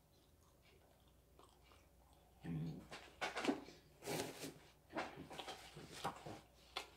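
A person chewing and biting seasoned dried squid close to the microphone, faint at first. From about two and a half seconds in come louder irregular crackles, rustles and bumps of handling.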